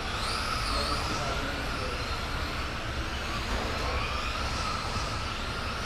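Several radio-controlled spec racing trucks running laps, their electric motors whining, the pitch rising and falling as they speed up and slow through the corners.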